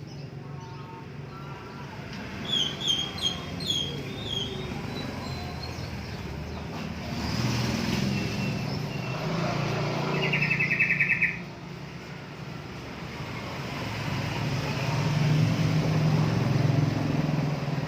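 Single-cylinder engine of a Honda CB100 fitted with a Mega Pro engine, running low and steady and swelling twice, with birds chirping a few times early and a fast trill in the middle.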